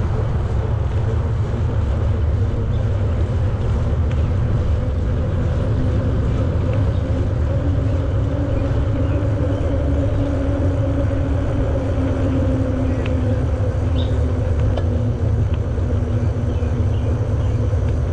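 Steady wind rumble on the microphone with bicycle tyre noise from riding along a greenway path, holding at an even level throughout.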